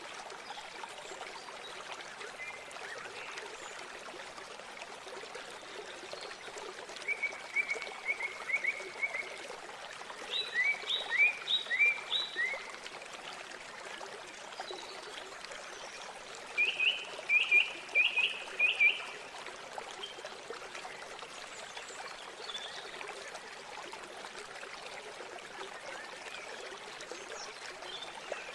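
Steady rush of flowing river water, with three runs of quick, repeated bird calls rising over it about 7, 10 and 17 seconds in.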